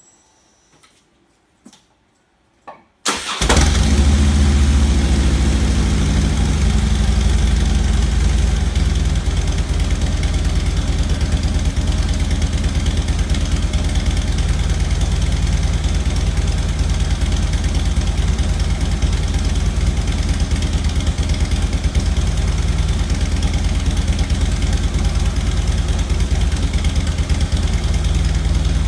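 2009 Harley-Davidson FLHT Electra Glide's V-twin engine through its stock exhaust, starting about three seconds in after a few faint clicks, then idling with a deep, steady pulsing note that settles within a few seconds of starting.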